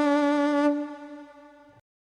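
Five-string electric violin played through a guitar amp with no effects, holding one bowed note that fades away from under a second in and stops just before the end.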